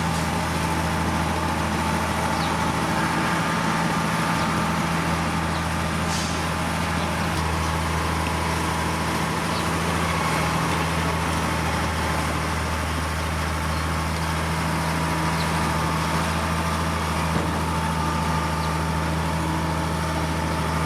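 Diesel engine of heavy earthmoving machinery running steadily with a constant low drone and a few faint clicks over it.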